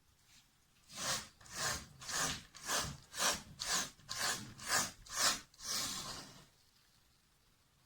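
Hand rubbing back and forth on a wooden board, about two strokes a second, with a longer final stroke that trails off.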